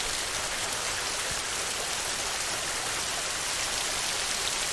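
Steady heavy rain drumming on a tin roof: an even hiss of countless drops with faint scattered taps.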